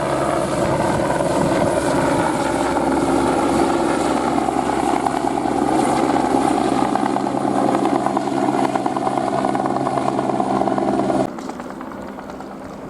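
Airbus AS350 helicopter running loud and steady, its rotor and turbine giving a set of held tones. It cuts off abruptly about eleven seconds in, leaving a much quieter background.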